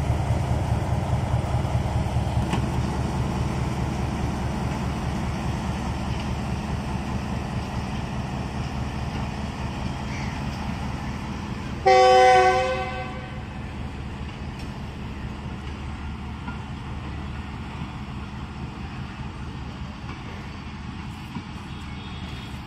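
Diesel-hauled passenger train departing: the GE U20 diesel-electric locomotive and its coaches rolling past in a steady low rumble that slowly eases as the engine draws away. About halfway through, a train horn sounds one blast of about a second, the loudest sound.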